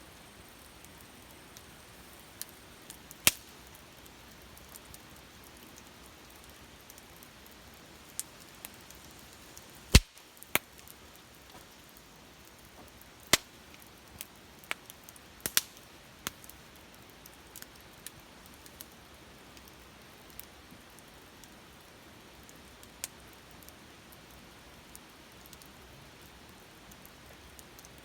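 Wood campfire burning and crackling: sharp, irregular pops over a soft, steady hiss, the loudest pop about ten seconds in.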